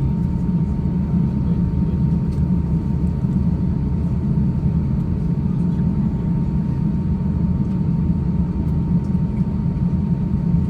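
Steady low rumble of an Airbus A350-900's cabin air and systems running while the airliner waits before departure, with a faint steady whine above it.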